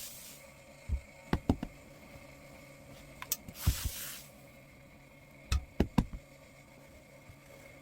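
Scattered knocks and taps of things being handled and set down on a work table, with one short hiss about three and a half seconds in.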